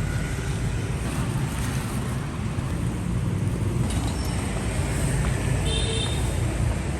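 Steady street traffic noise: a low rumble of vehicle engines passing by.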